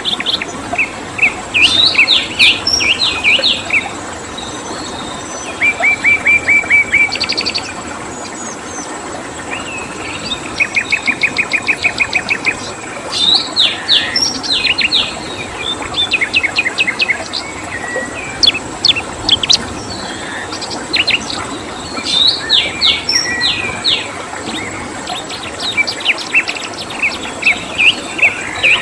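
Songbirds singing in repeated phrases of rapid trills and sharp chirps, a new phrase every second or two, over a steady background hiss of flowing water.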